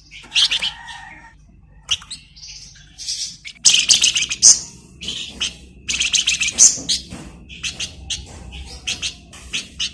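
Flamboyan songbird singing in bursts of fast, high chirps and rapid rattling trills, with short pauses between phrases; the loudest runs come about four seconds in and again a couple of seconds later.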